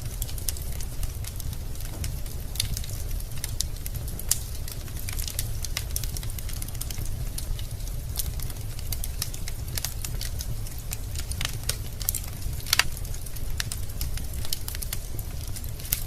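Wood fire burning in a fireplace: logs crackling with irregular sharp pops over a steady low rumble of the flames, with a louder pop about 13 seconds in.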